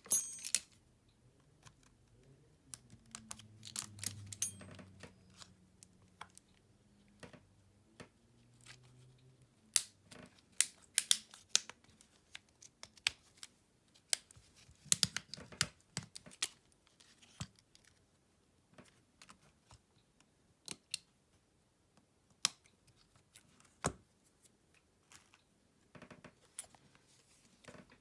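Irregular small clicks, taps and scrapes of hand tools and fingers on a smartphone's plastic and metal parts during disassembly. A faint low hum runs for several seconds a few seconds in.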